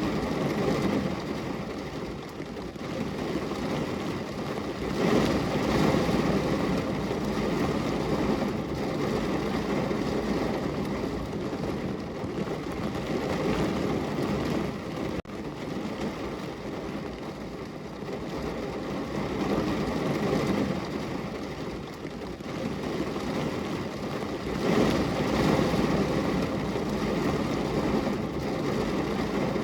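Heavy rain falling, a dense steady hiss that swells louder about five seconds in and again near the end.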